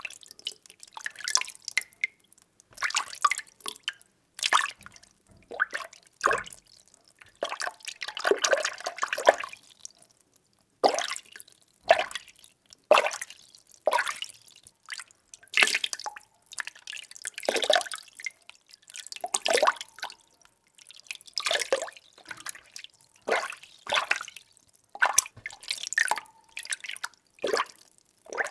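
Water being stirred: short swishing splashes about once a second, with one longer swirl about eight seconds in.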